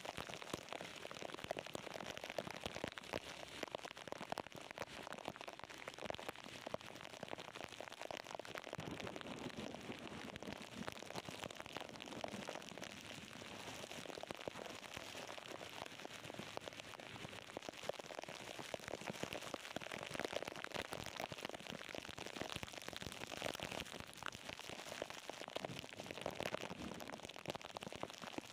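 Heavy rain falling steadily: a dense, even hiss made of countless small drop hits.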